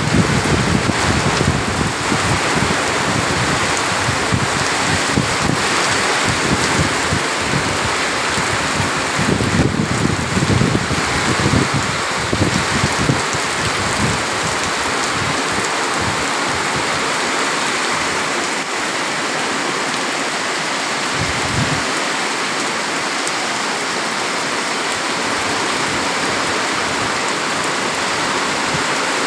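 Heavy rain falling steadily, a dense, even hiss, with irregular low rumbles through the first half.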